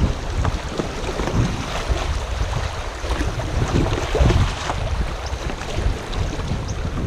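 Wind buffeting the microphone over the wash of moving river water around a kayak.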